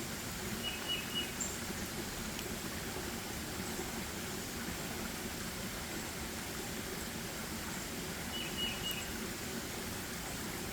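Forest ambience: a steady, even background rush, with a small bird giving a quick run of three high chirps about a second in and again near the end.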